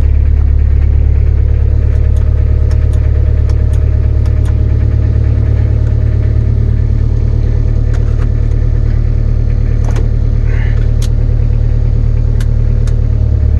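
1984 Ford Ranger's Perkins diesel engine idling steadily after a fresh start, with a strong, even low hum and scattered light clicks over it.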